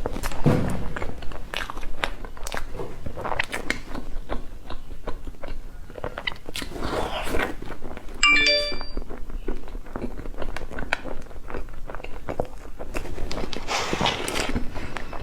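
Close-miked eating sounds of cake and dessert: bites with some crunch, wet chewing and sharp mouth clicks, coming in clusters.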